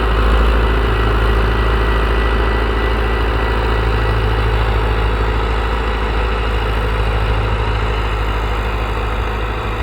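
Tractor engine running steadily with a deep rumble, easing slightly toward the end.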